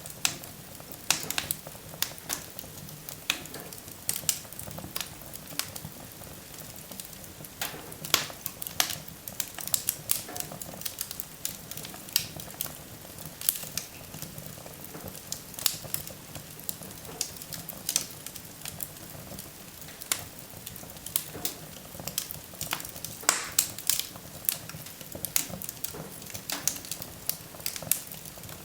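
Wood fire burning in a fireplace, crackling and popping: irregular sharp pops, several a second at times, over a steady low background of the burning logs.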